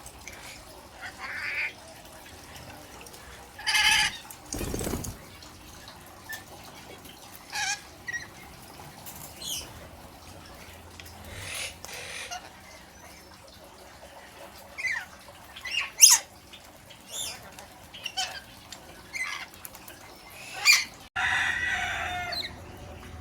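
Pet Australian lorikeet making short, high-pitched squawks and chirps at irregular intervals, with a few louder harsh bursts.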